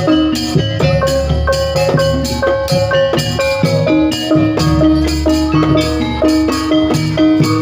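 Jaranan pegon music: a Javanese gamelan-style ensemble of metallophones and drums playing a fast run of ringing struck notes over drum strokes and heavy bass.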